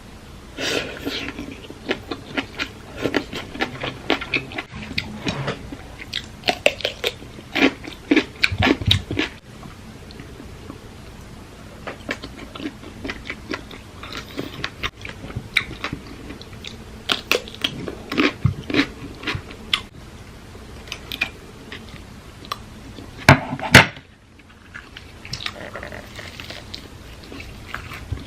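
A person eating papaya salad with octopus, chewing and crunching in irregular bursts of short crisp clicks, with a louder pair of crunches near the end.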